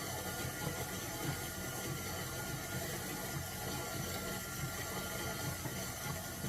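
Stand mixer running steadily at low speed, churning cultured sour cream into butter, with a sloshing, water-like noise.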